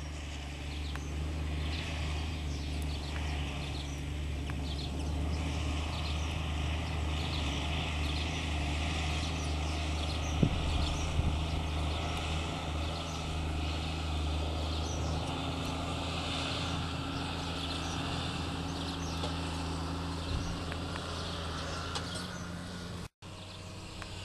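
Tractor engine running steadily while pulling a plough, its note dropping slightly about fifteen seconds in, with birds calling over it.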